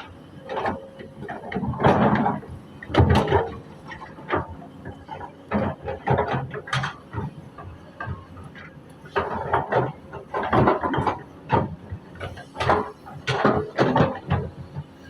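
Excavator bucket scraping soil off a road surface, heard as irregular bursts of grinding, scraping and clanking.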